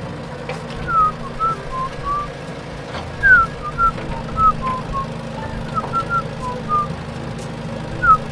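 A whistled tune of short, gliding notes, about two or three a second, over a steady low hum.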